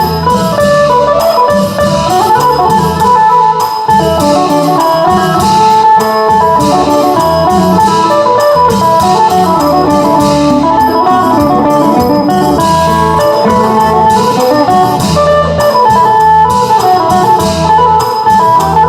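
Phin, the Isan plucked lute, playing a quick, busy melody of plucked notes over a steady beat: Isan dance music.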